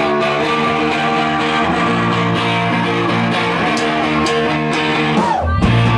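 Electric guitar played through an amplifier, holding and changing sustained chords. About five and a half seconds in, a heavy low bass comes in underneath as the band starts the next song.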